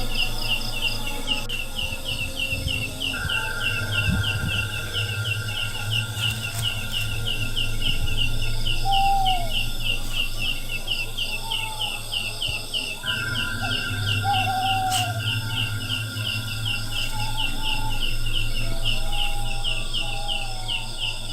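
Forest ambience dominated by an insect chirping in a fast, even rhythm of about four pulses a second, with a steady high whine from another insect cutting in and out in long stretches. Now and then a short bird call sounds over a low steady hum.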